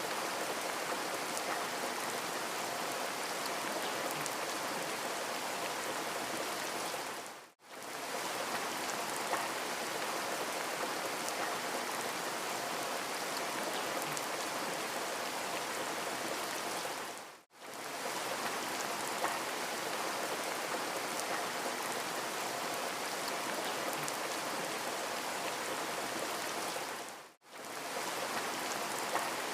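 Steady rain falling, a dense even hiss with scattered drop patter, played as a loop that fades briefly to silence and back about every ten seconds, three times.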